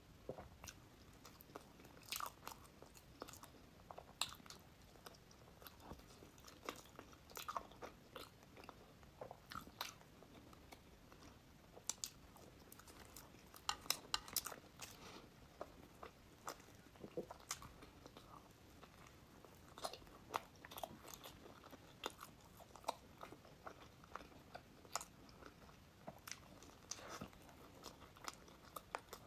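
Close-miked eating: bites into a crispy pastry and chewing, with irregular sharp crunches and crackles, densest about halfway through.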